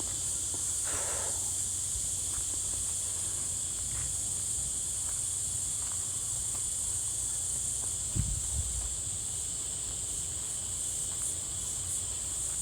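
Steady high-pitched drone of a chorus of insects, with a low rumble underneath and a soft thump about eight seconds in.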